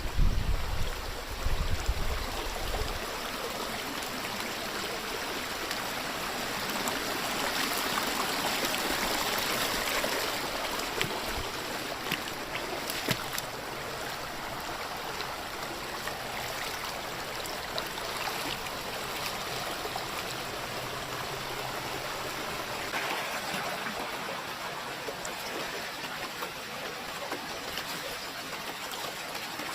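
A small river flowing: a steady rush of water, a little louder for a few seconds near the middle. Wind rumbles on the microphone during the first few seconds.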